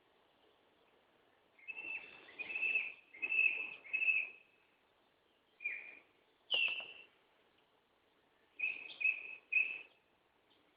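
Woodland songbird calling in short groups of clear, fairly high notes: a run of about four notes, two single notes, then a quick run of three, with pauses between.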